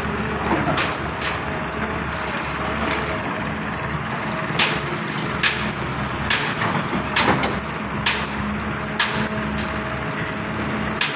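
Diesel engine of heavy earthmoving machinery running steadily, with irregular sharp knocks and clanks over it.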